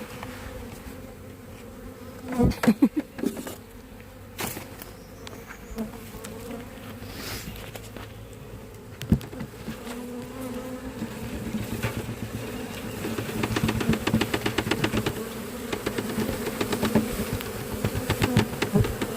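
A swarm of honeybees buzzing, a steady drone with drifting pitch, as the bees pour out of a swarm bag into a new hive. A few loud knocks come about two and a half seconds in, and from about twelve seconds in rapid tapping builds up as bees bump into the camera.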